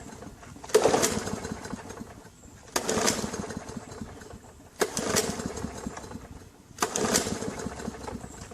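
Recoil starter of a Murray self-propelled lawn mower being pulled four times, about two seconds apart, each pull turning the engine over without it catching. The owner takes this for the tank being low on gas.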